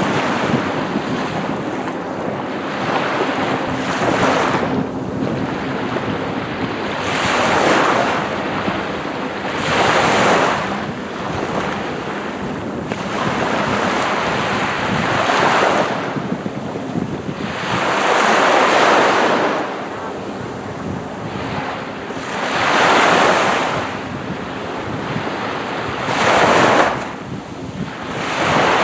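Sea waves breaking and washing up on a sandy beach, the surf swelling every few seconds.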